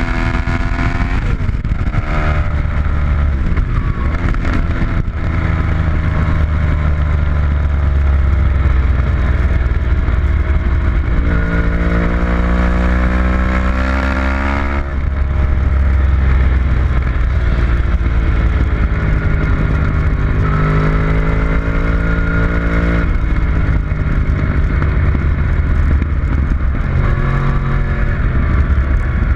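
Engine of a vehicle lapping a race track at speed. Its pitch climbs under acceleration and drops sharply about a second in, about fifteen seconds in and about twenty-three seconds in, at gear changes or braking. A heavy low rumble runs underneath.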